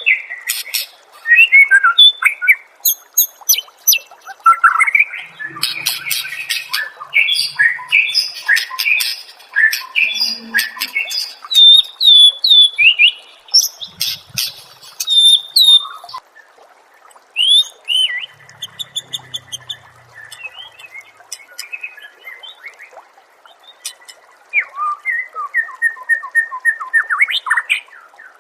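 Recorded songbird song used as masteran for training a white-rumped shama: a fast, varied string of chirps, squawks, whistled notes and sweeping calls. It thins to fainter notes for several seconds past the middle, then picks up with a quick run of sweeping notes near the end.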